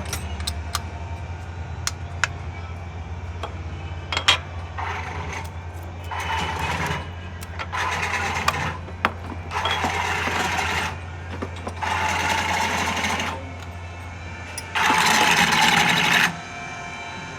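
Toyota Corolla GLi engine running after a tappet adjustment, with a steady low hum and six short bursts of louder noise about a second long each; the last and loudest comes near the end.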